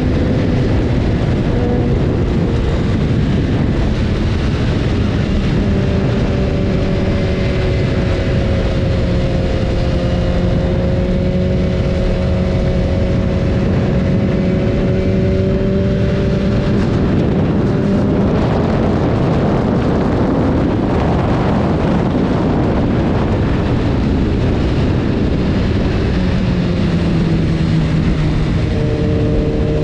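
BMW S1000RR's inline-four engine running while riding, under steady wind and road noise; the engine note holds fairly even through the middle and shifts up and down toward the end.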